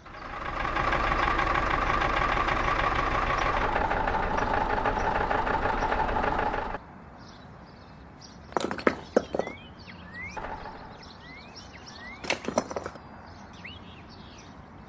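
A small motor runs steadily, then cuts off abruptly after about seven seconds. After it stops there are a few faint clicks and knocks and some short rising chirps.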